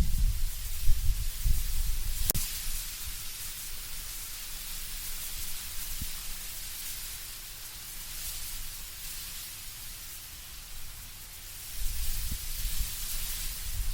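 Wind blowing through autumn trees with a steady hiss of rustling leaves. Low gusts are strongest at the start, ease off through the middle and rise again near the end, with a single sharp click about two seconds in.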